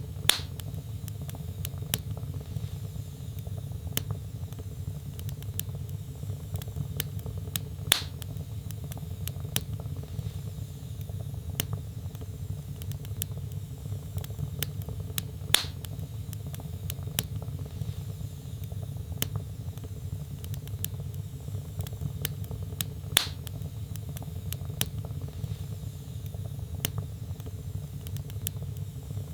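Wood fire crackling in a fireplace: many small sharp crackles over a steady low rumble, with a louder pop about every seven to eight seconds.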